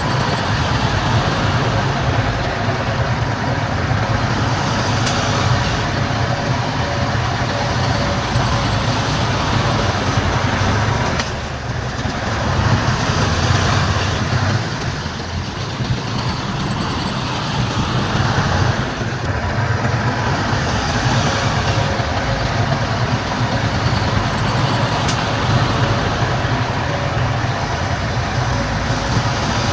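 Heavy diesel construction machinery running steadily, its engine note strong and low, with a faint steady whine above it and brief dips in level about 11 and 19 seconds in.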